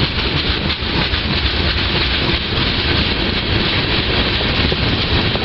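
Norfolk Southern freight train running past, a steady loud rumble of engine and wheels on rail.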